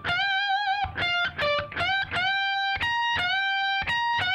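Electric guitar playing a repeating lead lick high on the neck: a B-string note at the 18th fret bent up a whole step, alternated with the high E string picked at the 15th fret. The held bends have a slight vibrato.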